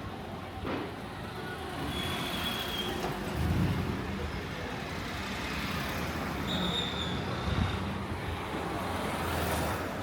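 Street traffic: engines of passing vehicles running over a steady roadway din, with two short high-pitched tones and one vehicle passing close near the end.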